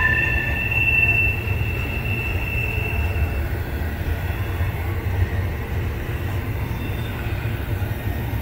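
CSX double-stack intermodal freight train rolling past, its well cars making a steady low rumble on the rails. A high, steady wheel squeal sounds for the first three seconds or so, then fades out.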